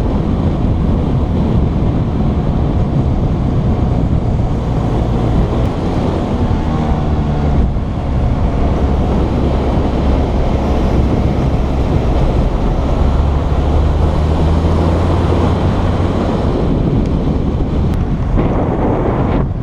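Motorcycle on the move: steady wind rush over the microphone with the engine's low hum underneath, its pitch changing now and then.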